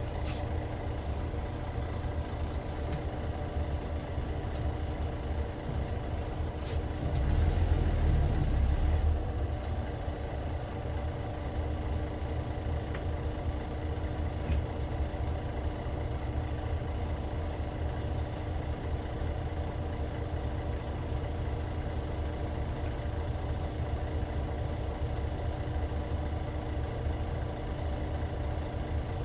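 Hyundai D6CC six-cylinder diesel engine of a Hyundai Universe Comfort coach idling steadily, with a brief louder low rumble about seven seconds in.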